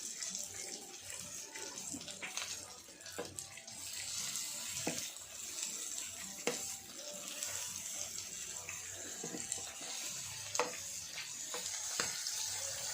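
Pork and tilapia sizzling steadily on an electric grill pan, a continuous hiss, with scattered small clicks and taps.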